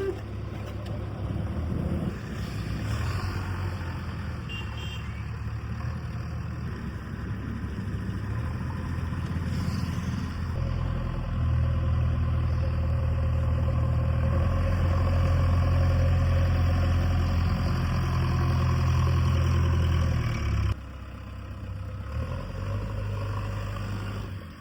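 A heavy farm machine's diesel engine running steadily. It grows louder about halfway through, as if under more throttle or load, then drops back suddenly a few seconds before the end.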